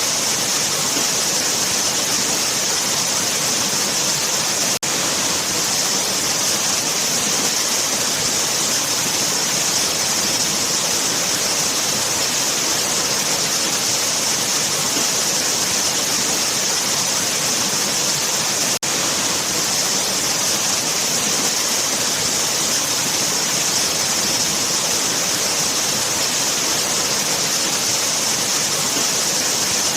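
Waterfall: a steady rush of falling water with a strong high hiss, broken only by two very brief dips, about 5 and 19 seconds in.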